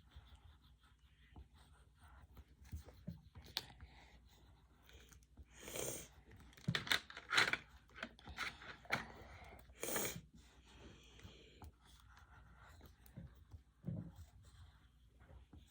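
Coloured pencil scribbling and shading on paper, a soft scratchy rubbing that comes and goes. Several louder short bursts of noise break in about six, seven and ten seconds in.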